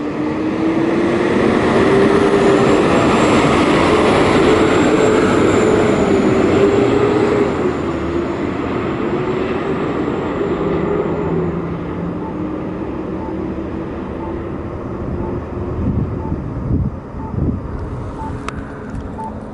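Fire engine driving by with its siren off, its diesel engine running loud with a wavering drone that eases off after about eight seconds. A faint beeping about twice a second comes in during the second half.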